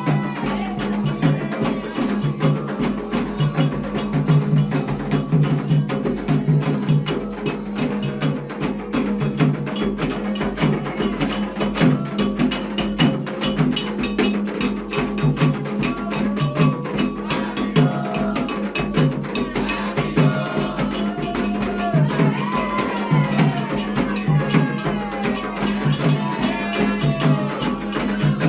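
Candomblé ceremonial drumming: atabaque hand drums beating a fast, steady rhythm with a struck percussion line over it. Voices singing join in more clearly in the second half.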